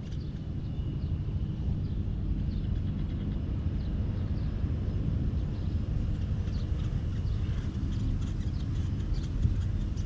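Outdoor ambience: a steady low rumble with faint, scattered short high bird chirps.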